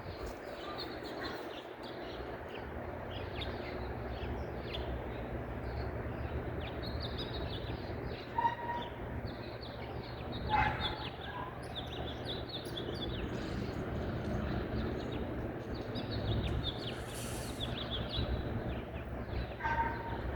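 Small songbirds chirping and twittering, with many quick high chirps overlapping throughout. A few louder, lower calls come about eight, ten and twenty seconds in, over a steady low background rumble.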